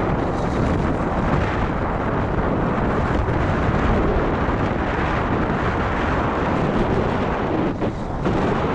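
Wind buffeting the microphone: a steady, heavy rumbling rush with a short lull about eight seconds in.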